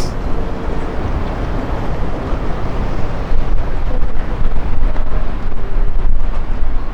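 Gusty wind buffeting the camera microphone: a loud, deep rumble that rises and falls with the gusts.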